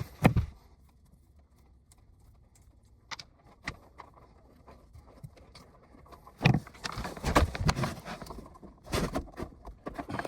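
Hands working on condensate pump wiring and fittings: a few faint clicks over near quiet, then from about six and a half seconds in a busy run of knocks, taps and rustling as parts are handled.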